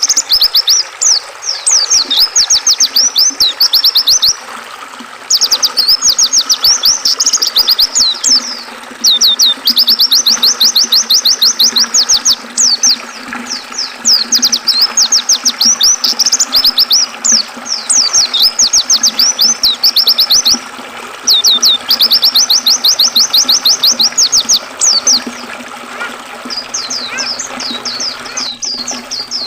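White-eye (pleci) singing rapid, high-pitched twittering trills, phrase after phrase with short pauses, over a steady rush of river water.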